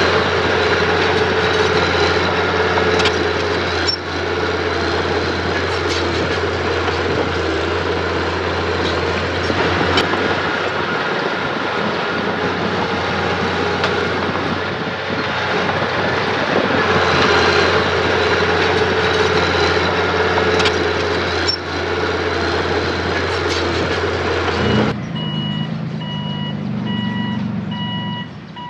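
Diesel engine of heavy earthmoving machinery running hard under load, with occasional metallic clanks. About 25 seconds in the engine drops away and a reversing alarm starts beeping steadily.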